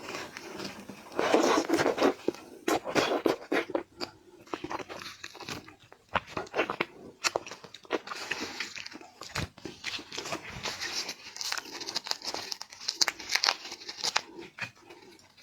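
Seafood shells being cracked and peeled by hand close to the microphone: dense, irregular crunching, crackling and tearing with sharp clicks, heaviest about a second in and again in the second half.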